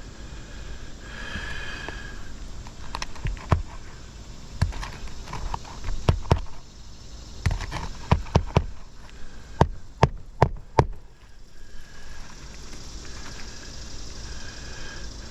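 Scattered sharp knocks and taps from work on brittle asphalt roof shingles, coming irregularly and thickest in the middle of the stretch.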